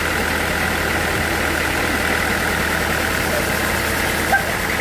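Sawmill machinery running steadily at idle, a constant engine hum with a higher whine above it, with one short click about four seconds in.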